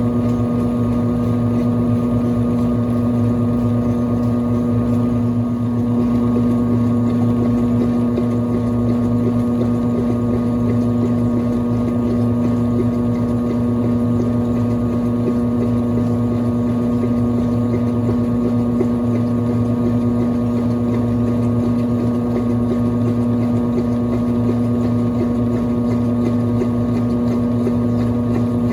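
Brastemp Clean 5 kg top-loading washing machine's motor running with a steady, unbroken hum.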